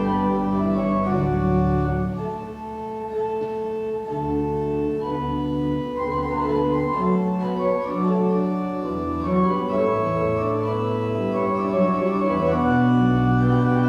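Church organ playing slow sustained chords over a stepping bass line.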